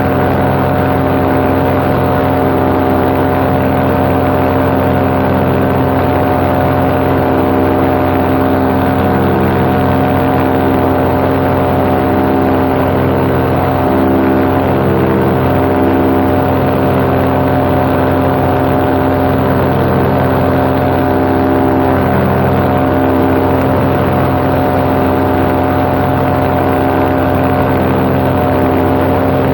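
Paramotor's two-stroke engine and propeller running steadily at cruise power, heard from the pilot's position with wind on the microphone.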